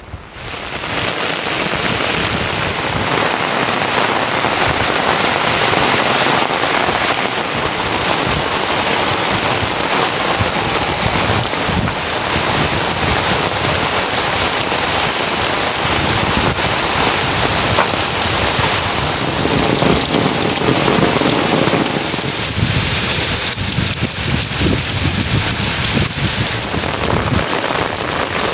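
Heavy rain pouring steadily, a dense, loud hiss that cuts in abruptly at the start.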